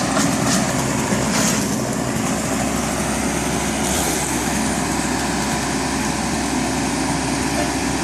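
A small petrol engine running steadily, with brief brighter hissing swells about half a second, a second and a half, and four seconds in.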